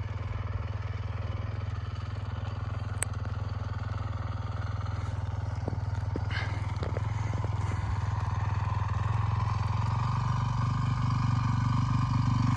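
Dirt bike engine running steadily, growing louder over the last few seconds as it approaches.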